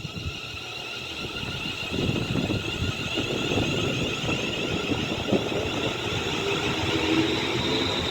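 Class 350 Desiro electric multiple unit moving through the platform, its traction equipment giving a steady high-pitched whine of several tones over a low rumble, growing louder.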